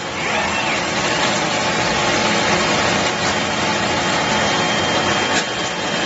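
Automatic bottle air-washing machine running, giving a steady, dense mechanical hiss and hum without a clear rhythm.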